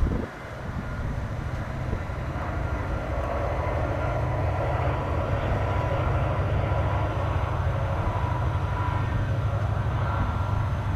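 Westbound CN freight train with diesel locomotives running, a steady low rumble that grows louder over the first few seconds and then holds.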